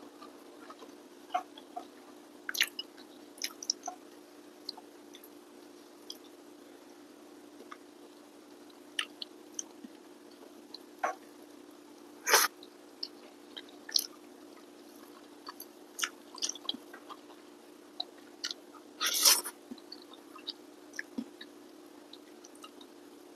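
Close mouth sounds of a person eating rice and fried egg by hand: scattered wet smacks and clicks of chewing, the loudest about twelve seconds in and again around nineteen seconds. A steady low hum lies under them.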